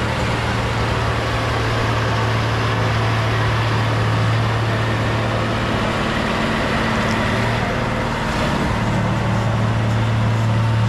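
Bulldozer's diesel engine running steadily with a deep, even drone, amid the rattle and grind of the machine at work.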